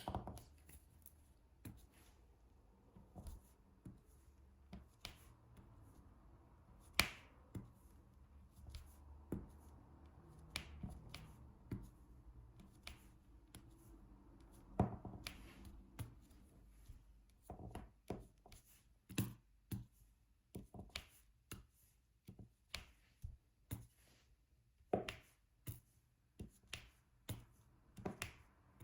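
Diamond painting drill pen picking up resin drills and pressing them onto the sticky canvas: a string of light, irregular clicks and taps, a few of them louder.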